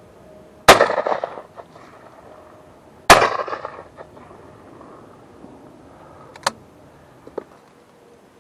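Shotgun fired twice at pigeons, about two and a half seconds apart, each shot with a decaying echo. A couple of small sharp clicks follow near the end.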